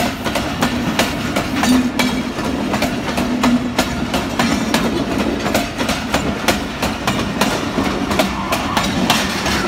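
Pakistan Railways passenger coaches rolling past, their wheels clattering over rail joints in a quick, uneven run of clicks over a low steady hum.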